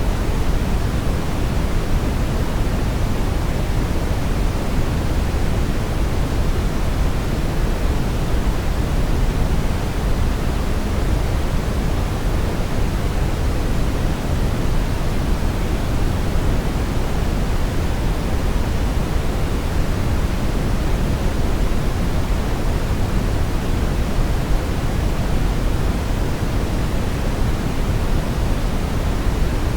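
Steady brown noise: a continuous, even rushing hiss weighted toward the low end, with no events or changes.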